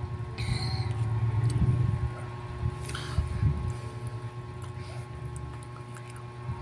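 Close-miked chewing of bread: soft mouth sounds with small wet clicks, and two brief rustles about half a second in and about three seconds in, over a faint steady hum.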